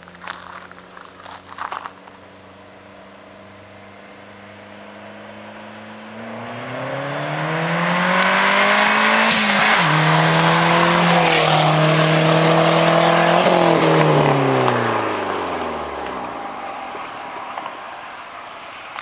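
Dodge SRT-4's turbocharged 2.4-litre four-cylinder through a catted 3-inch Modern Performance exhaust, its note climbing as the car accelerates hard, with a short break in the pitch about nine and a half seconds in, like a gear change. It holds loud for a few seconds, then the pitch drops and the sound fades as the engine winds down.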